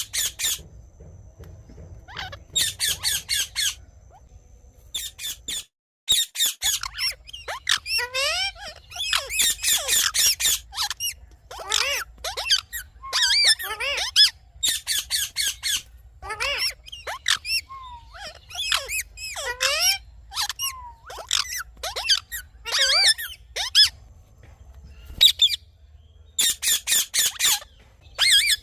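Indian ringneck parrot calling: repeated bursts of shrill squawks and chatter with short pauses between, and a brief total dropout about six seconds in.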